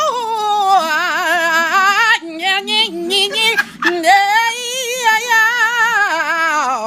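A woman singing a gospel song, drawing out long notes with a wide, warbling vibrato, broken by short breaks for breath; the last phrase slides down in pitch.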